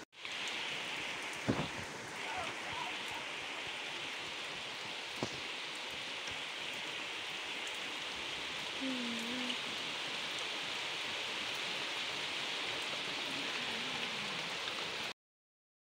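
Steady rain falling on a wet concrete rooftop: an even hiss with a couple of sharp taps. It cuts off abruptly near the end.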